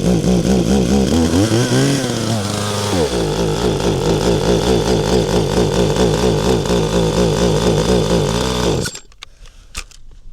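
Petrol two-stroke chainsaw engine running loudly with its speed wavering. It rises briefly about two seconds in, then dies abruptly near the end, typical of the saw stalling.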